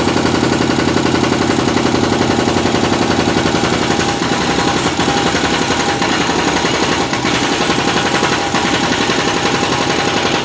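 Hydraulic jackhammer pounding into a concrete road, a loud, rapid, unbroken hammering over the steady run of an engine.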